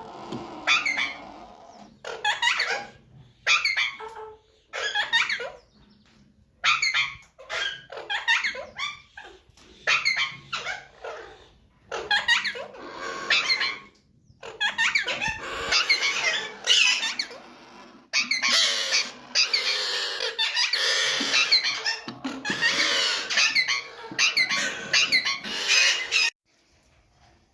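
Parrots calling with short, squeaky, high-pitched calls, at first in separate bursts about once a second, then in dense overlapping chatter about halfway through that stops suddenly near the end.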